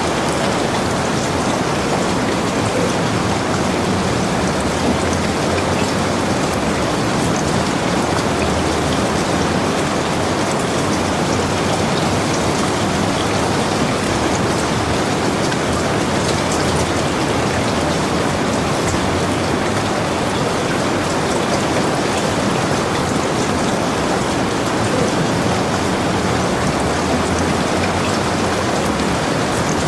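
Heavy rain falling steadily in a dense, even hiss, with scattered drops ticking on a surface.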